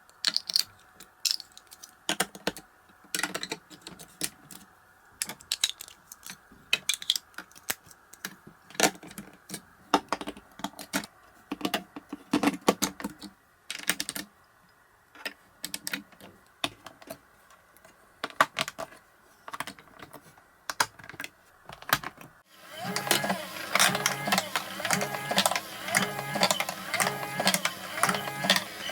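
Marbles clicking and clacking as they run down a block marble run, in quick irregular taps with short pauses. About three quarters of the way through, background music starts under the clicks.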